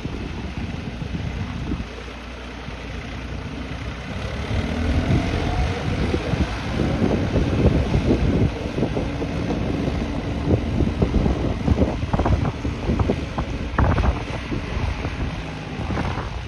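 Massey Ferguson 246 tractor engine running in mud, rough and uneven, getting louder about four seconds in, with wind buffeting the microphone.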